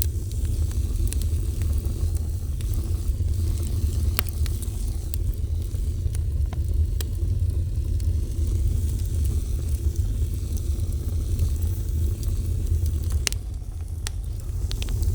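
A fire burning: a steady low rumble under a faint hiss, with a few sharp crackles and pops scattered through.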